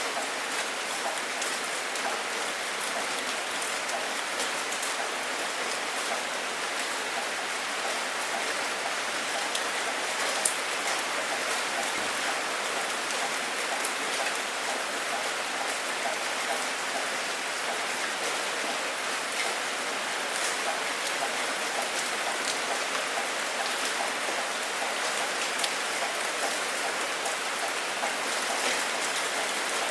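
Steady rain falling on a surface, with individual drops ticking throughout and one sharper drop click about ten and a half seconds in.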